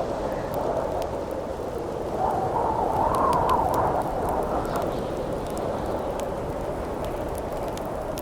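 Howling wind over a crackling campfire: the wind swells and rises in a gust about two seconds in, then eases back after about four seconds, while small sharp crackles from the fire pop throughout.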